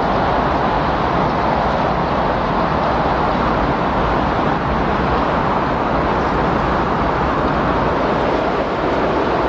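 Windstorm: steady, loud rushing wind noise that swells and eases slowly.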